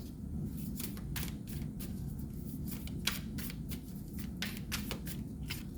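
Tarot cards being handled and laid out: a string of short, irregular card clicks and flicks over a low steady hum.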